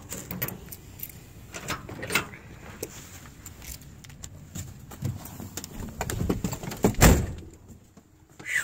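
Pickup truck door being opened and handled with scattered clicks, knocks and jingling keys, then slammed shut with one loud bang about seven seconds in.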